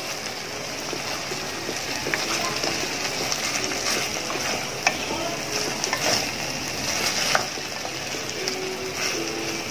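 Pork, kimchi and onion sizzling in a hot pan while a spatula stirs and scrapes them, with occasional sharp clicks of the spatula against the pan.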